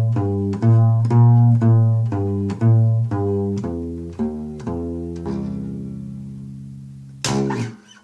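Plucked bass line closing out a song: deep notes struck about twice a second, the last one left ringing and slowly fading. Near the end a short, loud noisy strike, then the sound cuts off.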